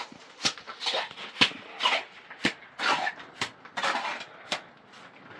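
Sharp knocks and clinks, about one a second, between scraping and rustling: hands and tools at work on building materials.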